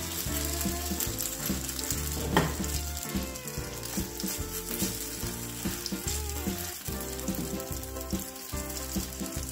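A cabbage, onion and egg patty mixture sizzling in hot oil in a nonstick frying pan, with a silicone spatula pressing and pushing it into shape against the pan.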